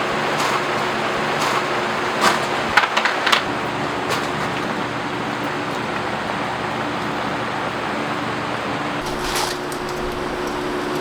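Heavy rain pattering steadily on tent fabric, with a few louder drips or taps at about two to three and a half seconds in and again near the end. A steady low hum runs underneath.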